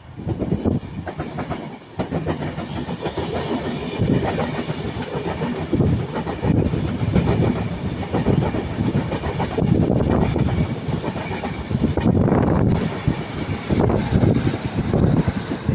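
A Class 390 Pendolino electric train and a Northern Class 156 diesel unit passing at the same moment, their wheels clattering in repeated surges as the carriages go by.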